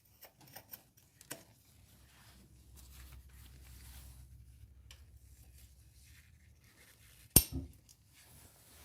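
Spark plug socket and wrench clinking and clicking against metal while a spark plug is being unscrewed from the engine, with one sharp, loud click near the end.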